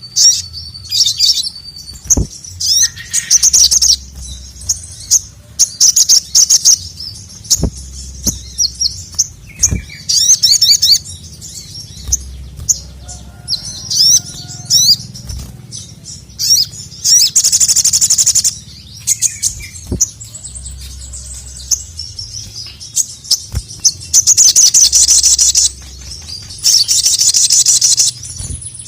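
Sogon (sogok ontong) sunbird singing in a rapid, high-pitched chatter: bursts of quick chirps and fast trills, with several longer runs of about two seconds near the middle and end.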